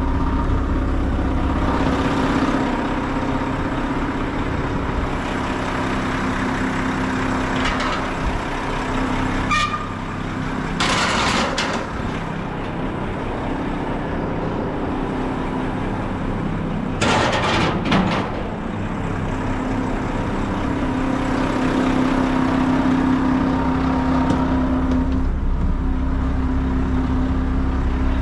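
Diesel engine of a Mack front-load garbage truck running steadily, heard from inside the cab. Two short hisses come about eleven and seventeen seconds in.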